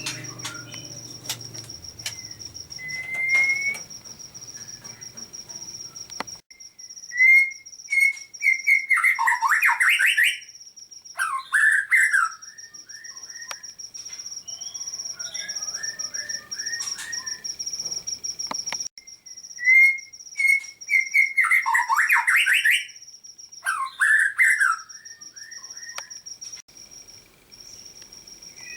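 Songbird singing loud whistled phrases with fast trills, the same burst of song coming twice, over a steady high-pitched tone.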